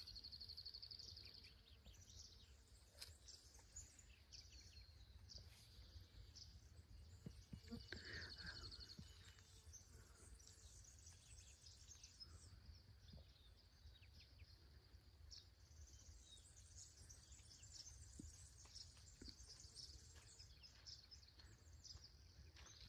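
Faint birdsong: scattered high chirps, with a short rapid trill at the start and another about eight seconds in, over a low steady rumble.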